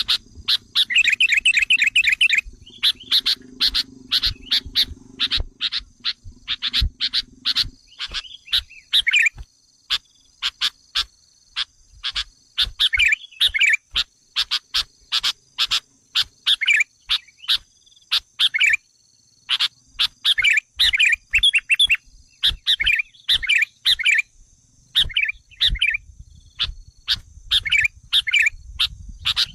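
Sooty-headed bulbul (kutilang) calls used as a lure: a dense run of sharp chirps broken by short, fast trilled phrases.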